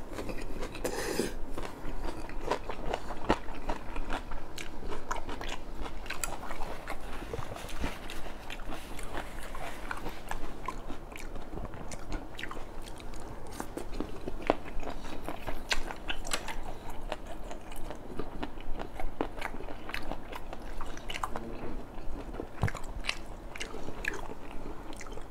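A person chewing and biting food close to the microphone, with many small irregular crunches and mouth clicks: mouthfuls of stir-fried squid in satay sauce with vegetables.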